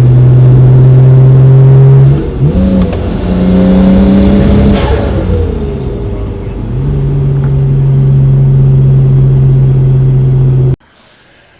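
Nissan Skyline R32 GT-R's inline-six engine heard from inside the car on the road, running steadily. It revs up to a higher pitch about two seconds in, drops back, then settles into a steady cruise again. The sound cuts off suddenly near the end.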